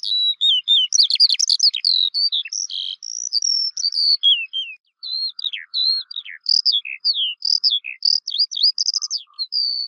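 Songbird singing a fast, varied run of whistled chirps, many notes sliding down or up in pitch, with a brief pause about five seconds in.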